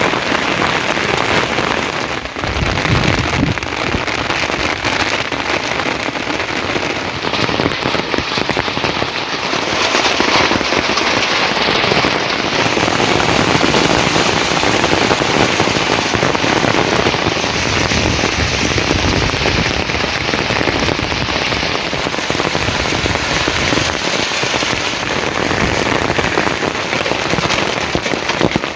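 Steady heavy rain falling on surfaces, a dense hiss of drops that grows a little louder about a third of the way through.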